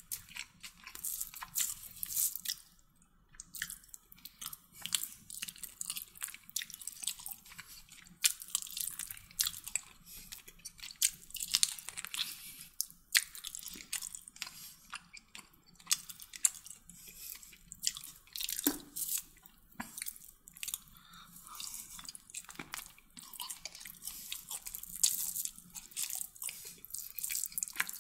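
Close-up eating: a person chewing mouthfuls of chicken kottu roti, a steady run of irregular wet mouth clicks and smacks.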